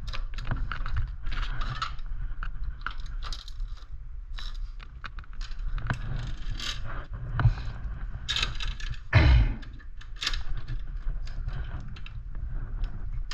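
A SRAM 8-speed bicycle chain clinking and rattling against the sprockets and rear derailleur as it is handled and threaded by hand, in many small irregular clicks, with one louder clunk about nine seconds in.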